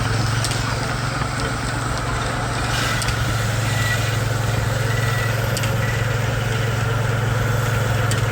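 Baker 23-90 heavy-duty Uniflow steam engine running steadily with a constant low hum, belted to a Frick sawmill that is turning without a log before the first cut.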